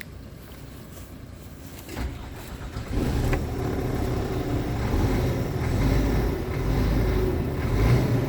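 Scania R tractor unit's diesel engine being cranked about two seconds in and catching a second later, then running steadily.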